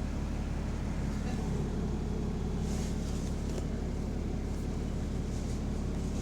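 Bus engine running at a steady, unchanging pitch, a constant low drone; the bus has an exhaust leak.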